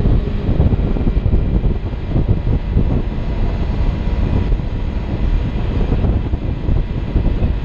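Wind rushing and buffeting over a motorcycle rider's helmet microphone at riding speed, with a Kawasaki Ninja 300's engine running steadily underneath.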